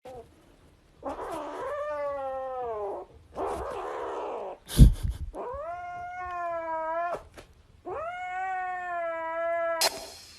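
Cat yowling in long, drawn-out calls that waver in pitch, four of them, with a rougher, noisier call after the first and a sharp knock about five seconds in.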